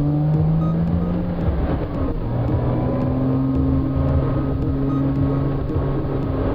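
Porsche Cayman's flat-six engine pulling steadily on the move, heard from inside the cabin along with road noise. Its pitch steps down about two seconds in, then holds steady.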